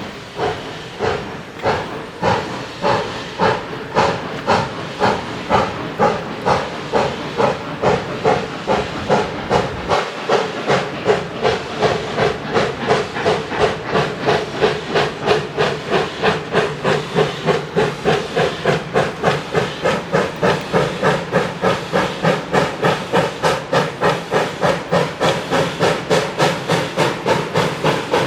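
Arcade & Attica 2-8-0 Consolidation steam locomotive #18 working a train, its exhaust chuffing in an even beat that quickens from about one and a half to about three chuffs a second as it picks up speed.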